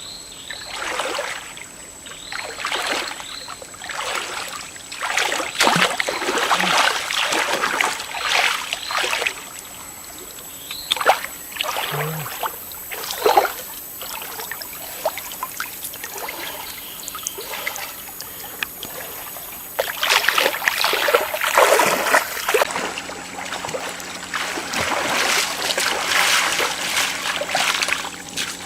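Water splashing and sloshing in short repeated swishes, about one a second at first, then a quieter spell and a louder burst of splashing about two-thirds of the way in. A thin, steady high tone sits behind it.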